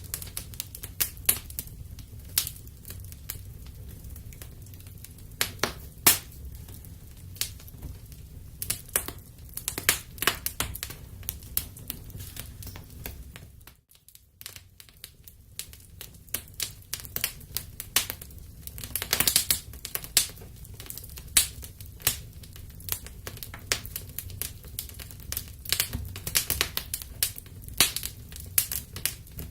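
Wood-burning fireplace crackling: irregular sharp pops and snaps of burning wood over a steady low rumble of the flames, with a brief drop almost to silence about halfway through.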